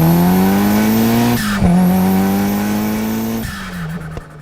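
Car engine accelerating hard under load. Its pitch climbs, drops at a gear change about a second and a half in, climbs again through the next gear, and eases off near the end.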